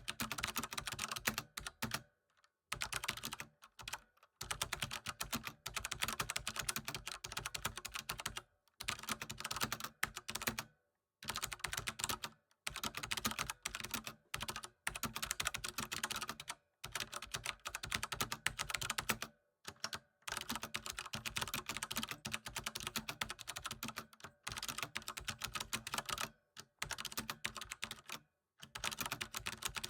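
Computer keyboard typing: fast, dense runs of key clicks, broken by brief pauses every few seconds.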